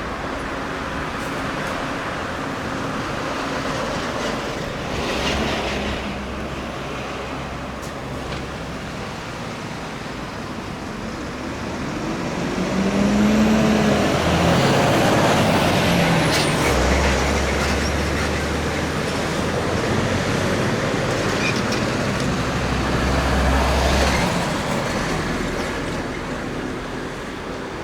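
Kawasaki XC-2 transport's twin turbofan engines running as it passes on approach. The jet noise swells to its loudest about halfway through, then slowly eases off.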